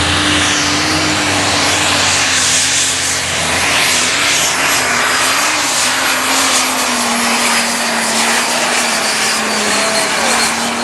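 Diesel super stock pulling tractor at full power, dragging the sled down the track: a loud, steady engine with a high, steady whistle above it.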